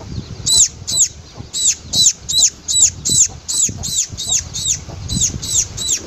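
Fledgling pipit giving a steady, rapid series of high, thin chirps, about three a second, over low rumbling handling noise.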